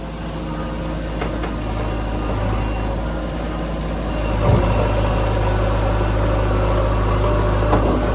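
Heavy vehicle's diesel engine running steadily at low revs, with a brief knock about four and a half seconds in.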